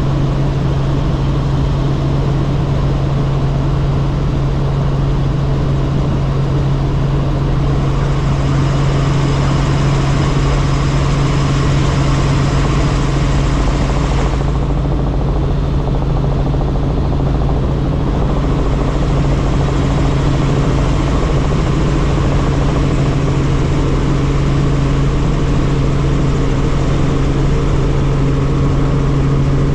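Helicopter in flight heard from inside the cabin: a loud, steady drone of rotor and turbine with a constant low hum. A brighter hiss joins about a quarter of the way in and cuts off suddenly about halfway through.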